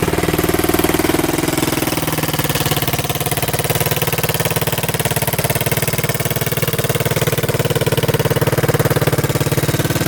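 1985 Yamaha 225DX three-wheeler's single-cylinder four-stroke engine idling steadily, freshly rebuilt and running well.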